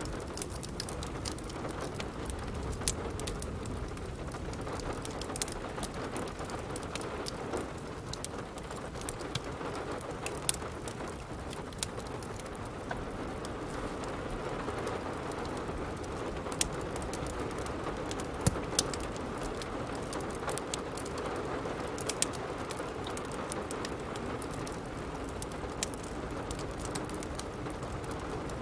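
Steady rain with the irregular sharp pops and crackles of a wood fire burning in a fireplace.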